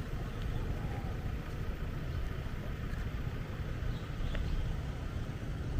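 Steady low rumble of city street traffic, with a few faint short high ticks.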